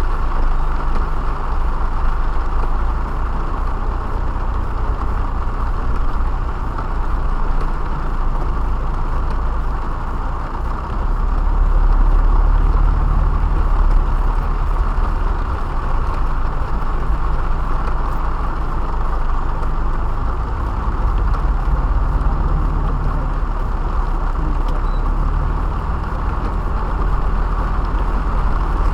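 Driving noise inside a car's cabin: a steady low rumble of engine and tyres with a hiss over it, growing louder about eleven seconds in.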